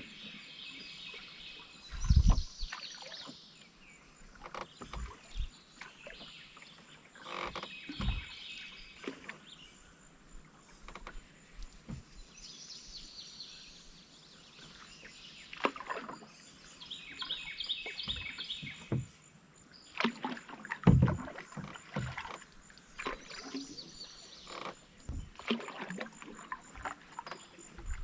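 Canoe paddle strokes: a swish and drip of water every few seconds as the paddle pulls through and lifts out, with a few sharp low thumps, the loudest about three quarters of the way through.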